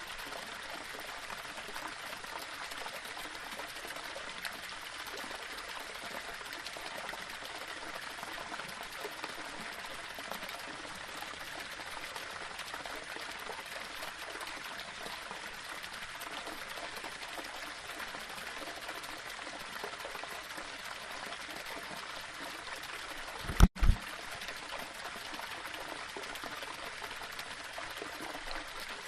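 Small waterfall running steadily over rocks, an even rush of splashing water. Once, a little past two-thirds of the way through, a short loud low thump with a split-second gap cuts through it.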